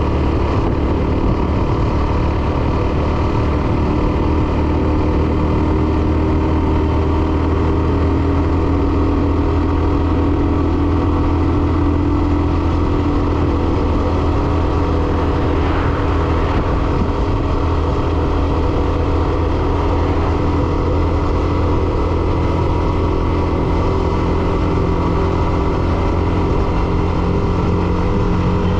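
Hero Xtreme 125R's single-cylinder engine running at a steady pace while the motorcycle is ridden, an even engine note with little change throughout.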